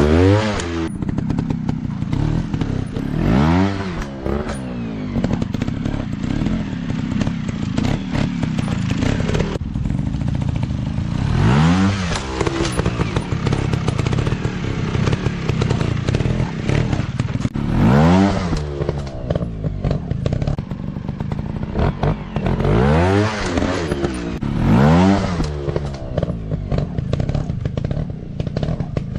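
Dirt bike engine running and revving, with about six sharp rev-ups that climb in pitch and fall back, spread through the stretch.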